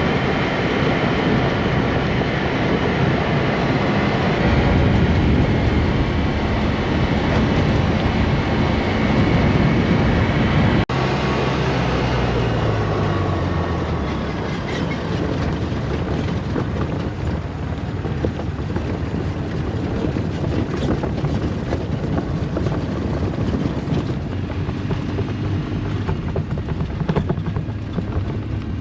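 Polaris Ranger side-by-side being driven, its engine running steadily under load. About eleven seconds in the sound breaks off briefly and the engine note then drops, with small ticks and rattles over the rest of the ride.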